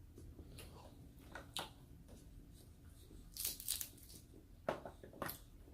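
Snow crab leg shells being cracked and pulled apart by hand: a few short crackling crunches, the biggest cluster about three and a half seconds in.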